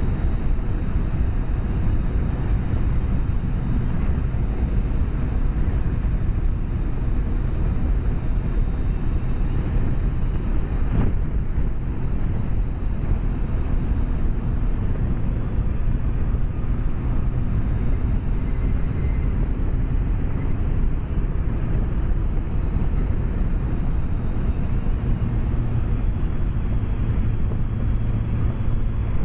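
BMW K1200S inline-four engine running steadily at cruising speed, with wind and road noise, heard through a microphone inside the rider's helmet.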